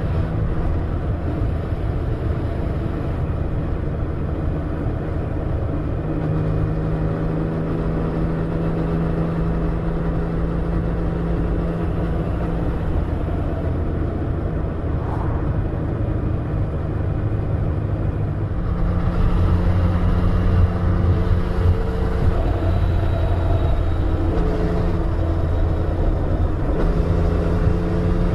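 Yamaha Tracer 900's three-cylinder engine running under way, with low road and wind rumble. The engine note shifts now and then, grows louder about two-thirds of the way through, and rises near the end.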